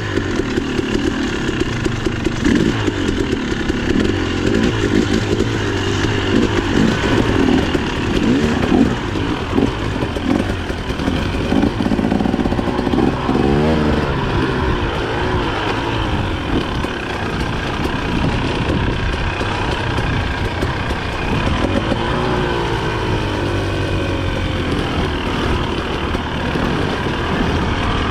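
Dirt bike engine running hard on rough ground, revving up and down with the throttle, with the pitch rising steeply twice.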